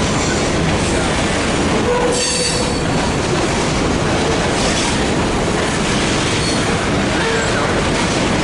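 Freight train cars rolling past close by: a steady loud rumble of steel wheels on rail, with short wheel squeals about two seconds in and again near the end.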